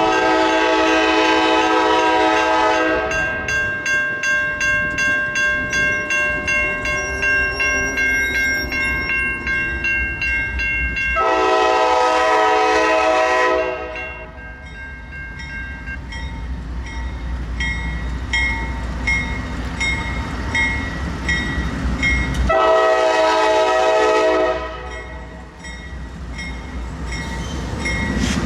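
Norfolk Southern freight locomotive sounding its multi-note air horn in three long blasts, near the start, about eleven seconds in and about twenty-three seconds in. Between the blasts the train rumbles past with a rhythmic clatter of wheels over the rail joints.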